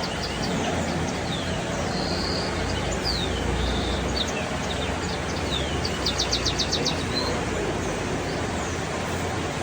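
Birds chirping and whistling over a steady background of noise and low hum. A little past the middle comes a quick run of about eight sharp chirps.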